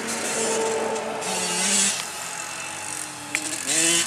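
Dirt bike engine running at a distance, its note climbing as the revs rise near the end.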